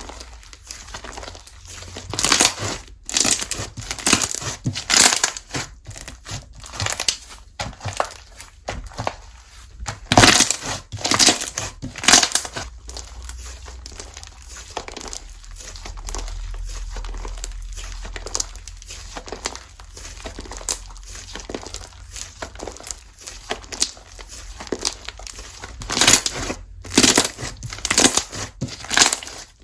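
Slime being squished, stretched and poked by hand, giving irregular bursts of sticky crackling and popping clicks, with a quieter stretch midway.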